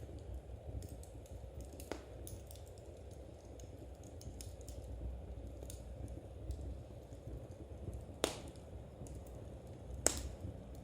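Wood fire crackling in a fireplace: a low steady rumble with scattered small ticks and three sharp pops, one about two seconds in and the two loudest near the end.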